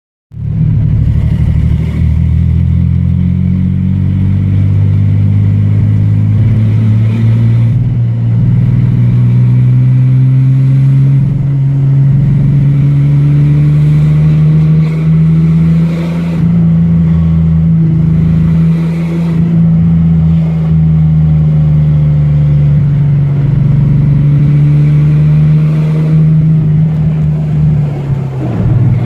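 Ford Ranger engine running with a misfire that has persisted through a long list of replaced parts. Its speed climbs slowly, is held, and drops off near the end.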